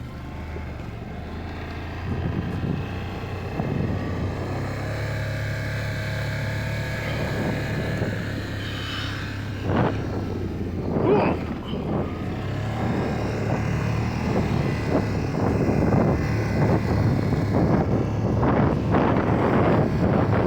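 Can-Am Outlander 850 ATV's V-twin engine running under way, its note shifting a few times as the speed changes, with rushing noise over it.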